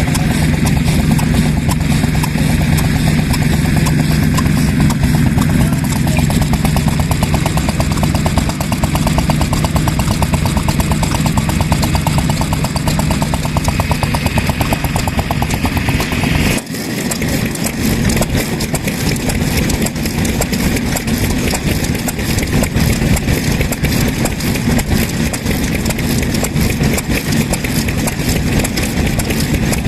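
Vintage stationary kerosene engine (hatsudoki) running steadily, with a rapid, even beat. A sudden brief break about 17 seconds in, after which a similar steady engine beat carries on.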